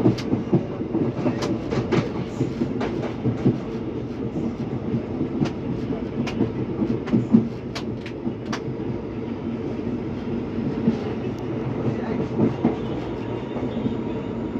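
Moving train running on the rails: a steady rumble with scattered sharp clicks of the wheels, most frequent in the first nine seconds. No horn sounds.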